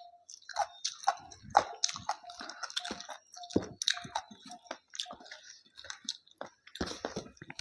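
Close-up chewing and biting of rice, chicken and salad: a dense, irregular run of mouth smacks and clicks.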